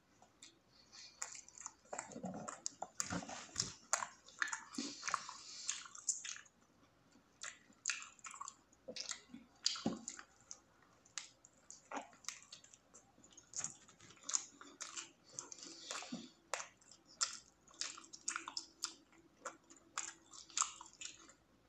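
Chewing and biting a spicy footlong sandwich: an irregular run of short mouth clicks and smacks, with a brief lull about six seconds in.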